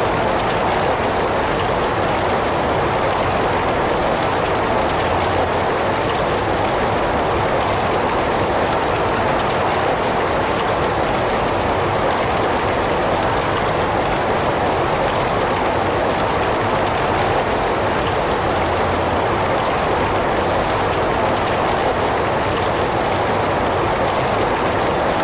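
Heavy rain falling in a steady, unbroken wash of noise.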